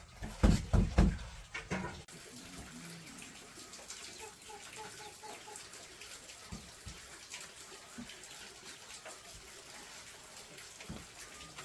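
Water running and splashing, with several heavy low thuds in the first two seconds.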